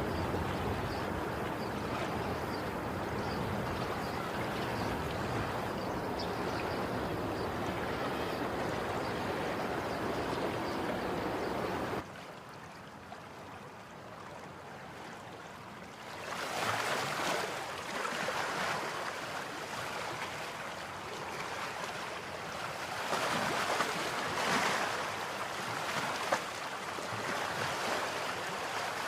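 Sea surf rushing steadily with wind buffeting the microphone, then after an abrupt cut a calmer sea in which waves swell and wash in, twice standing out louder near the end.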